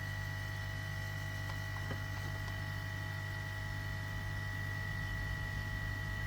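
Steady electrical hum with a thin high-pitched whine over it, and a few faint ticks about two seconds in.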